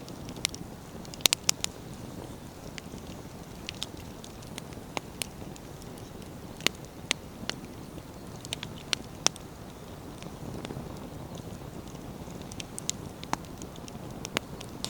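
Firewood bonfire burning: a steady low rustle of flames with irregular sharp crackles and pops of the burning wood. The loudest is a quick cluster of pops about a second in, with another strong pop near the middle.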